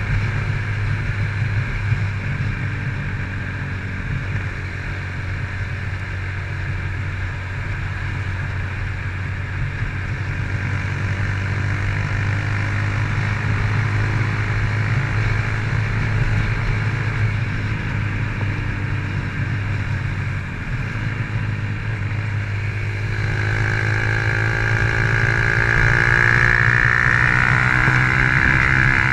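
Honda CG Titan 150's single-cylinder four-stroke engine, fitted with a Fortuna exhaust, running steadily under way. About three-quarters of the way in, its note rises as it accelerates and grows louder.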